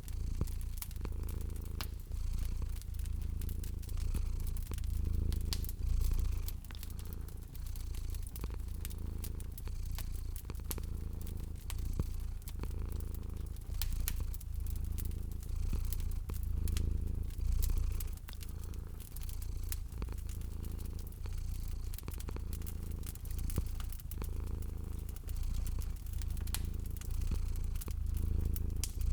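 Domestic cat purring, a low rumble rising and falling in slow swells, over the frequent small pops and crackles of a wood fire.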